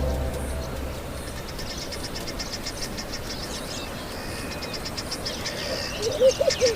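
Wildlife ambience: a chorus of small calling animals, with high chirps repeating evenly several times a second. A lower, warbling call joins near the end, and the tail of orchestral music fades out at the start.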